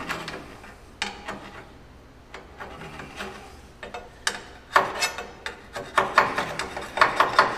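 Hand file rasping on metal in a run of short strokes. The strokes are sparse at first, then quicker and louder in the second half, as something is knocked off the part before welding.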